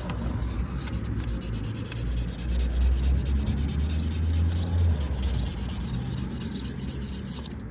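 Hand wet-sanding of cured body filler with 600-grit sandpaper and soapy water: a steady rubbing scrape of wet paper over the filler, swelling and fading with the strokes.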